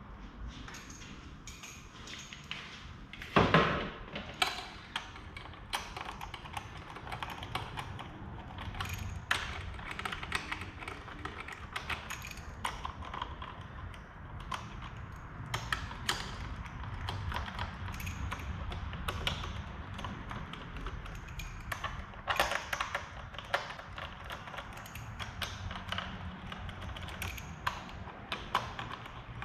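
Metal hand tools and engine parts clicking, tapping and clinking irregularly as work goes on at the engine, with a loud clank about three and a half seconds in and a louder flurry of knocks near twenty-two seconds.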